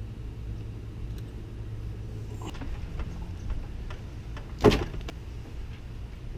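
A few light clicks and one sharp, loud clunk of metal and plastic parts being handled and knocked in a car's engine bay, over a steady low hum.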